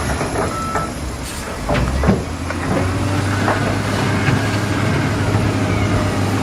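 Heavy construction machinery's diesel engine running, with scattered sharp clanks and knocks. The engine note settles into a steady hum about a third of the way in.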